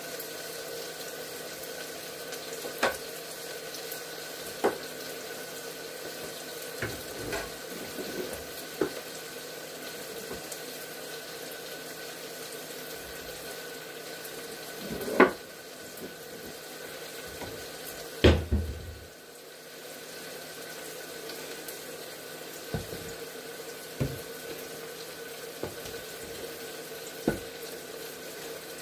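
Kitchen items being handled: scattered short knocks and clunks over a steady background hum, the two loudest about halfway through.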